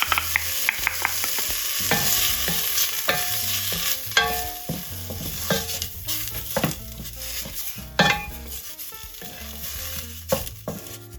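Vegan chick'n strips and dried herbs sizzling in a hot pot while a utensil stirs them, knocking and scraping against the pot with short ringing clinks. The sizzle gets quieter toward the end.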